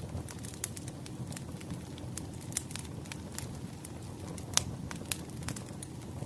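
Wood fire crackling: a steady low rush with irregular sharp pops, the loudest about four and a half seconds in.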